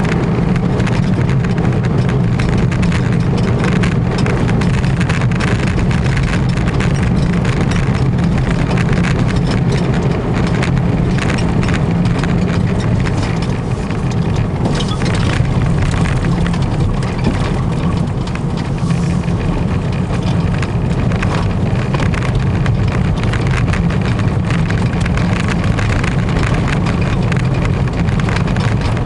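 Citroën Visa II Spécial's air-cooled flat-twin engine running steadily while driving, heard from inside the cabin together with road noise.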